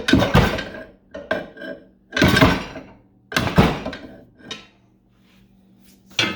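Steel pry bar clanking and scraping against a cast aluminum gearbox cover as it is levered off, about six sharp metallic knocks over the first five seconds, then quieter near the end.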